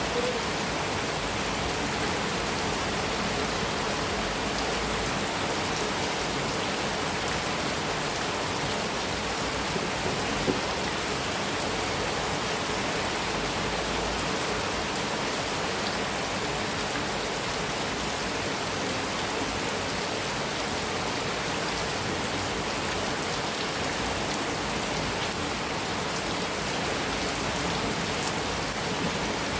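Heavy rain falling steadily on a metal roof, an even unbroken hiss of drops, with one slightly louder drop about ten seconds in.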